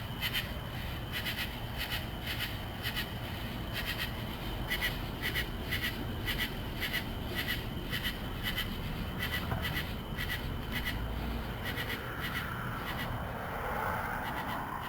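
Outdoor summer ambience: a steady pulsing chirp, two or three times a second, over a low rumble, with a broader sound swelling near the end.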